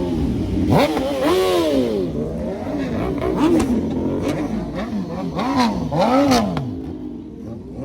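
Car engine being revved repeatedly with a run of quick throttle blips, each rising and falling in pitch. The revving dies away near the end.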